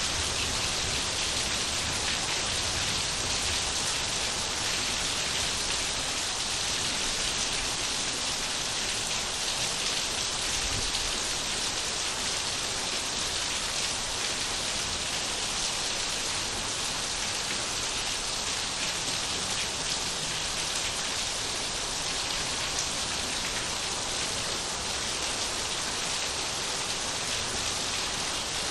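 Steady rain falling, an even hiss of many drops with fine pattering, unchanging throughout.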